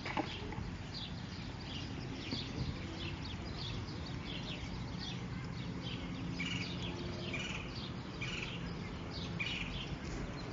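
Small birds chirping in many quick, short calls throughout, over a steady low background rumble, with a brief knock right at the start.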